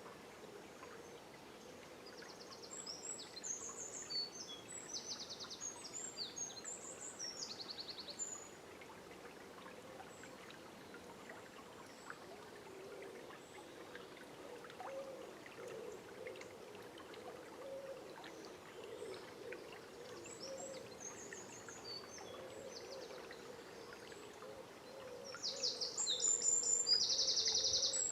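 Forest river flowing with a steady burbling rush, and songbirds singing quick high phrases in bursts: a few seconds in, again around twenty seconds, and loudest near the end.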